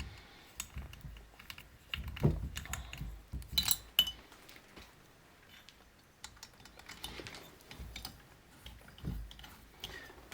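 Scattered small metallic clicks and clinks of a hand tool snugging down the cylinder bolts of a chainsaw engine, busiest in the first four seconds, with a lull in the middle before more clicks.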